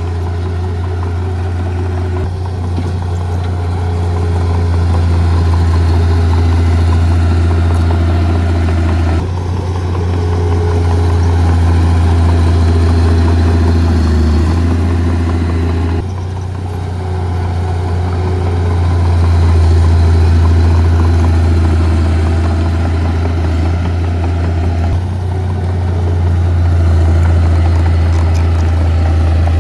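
Heavy diesel earthmoving machinery running with a deep, steady engine drone that swells and eases with load, shifting abruptly a few times.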